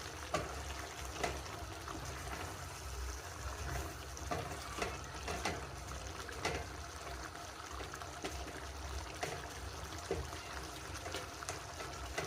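Chicken stew in tomato sauce simmering and bubbling in a pot on low heat, with scattered light clicks of a spoon against the pot as it is stirred gently.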